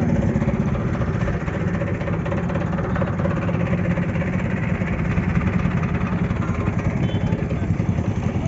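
Tractor diesel engine running steadily at low revs, a continuous low, pulsing drone.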